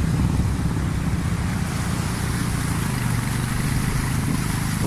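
A motor running steadily with a low hum, under a broad rushing noise.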